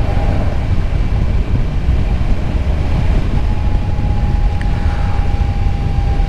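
Kawasaki motorcycle under way, heard through a rider's microphone: a steady low engine and wind rumble. A thin, steady whine drops out early and returns about halfway through.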